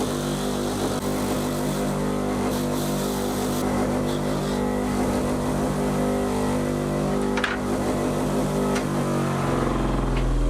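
A car engine running steadily, its pitch dropping with a deeper rumble in the last second.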